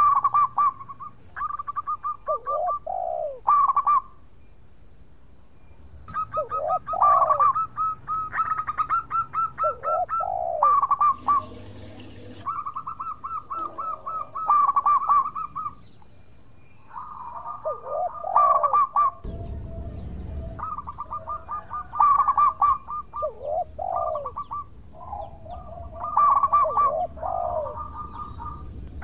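Zebra dove (perkutut) singing: repeated phrases of rapid pulsing coos, each with short falling notes, in bouts with brief pauses between them. A short burst of noise comes about twelve seconds in and a low rumble about twenty seconds in.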